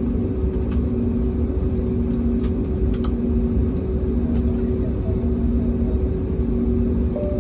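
Airbus A321neo cabin noise while taxiing: a steady engine hum over a low rumble, with a second tone that pulses on and off about once a second, and a few faint clicks.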